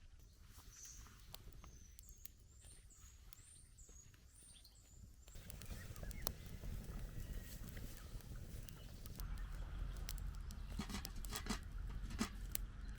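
A bird calls a few times with a high, wavering phrase. About five seconds in, a louder rustling with scattered sharp clicks and knocks takes over, as of gear being handled at camp.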